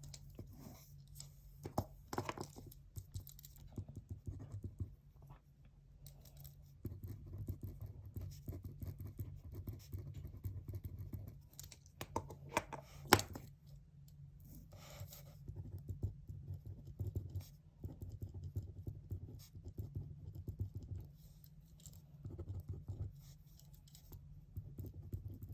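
Pen writing on paper in irregular scratchy strokes, with scattered taps and one sharp click about halfway through, over a low steady hum.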